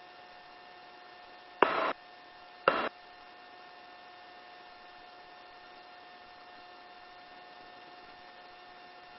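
Faint steady electrical hum and hiss on a helicopter headset intercom line, with no rotor noise heard. Twice, a couple of seconds in, the line opens briefly with a click and a short burst of noise, as when a voice-keyed headset mic cuts in and out.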